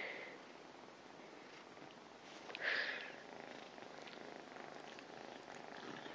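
Domestic cat purring faintly and steadily, with one brief louder sound about two and a half seconds in.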